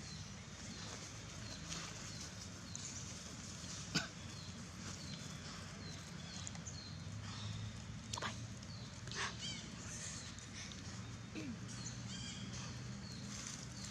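Many short, high-pitched animal chirps and squeaks repeating throughout, over a low steady background hum, with one sharp click about four seconds in.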